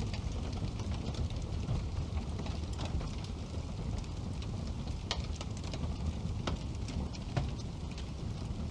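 Wood fire burning in a fireplace, with a steady low rush of flame and frequent sharp crackles and pops from the burning logs; a few louder pops come in the second half.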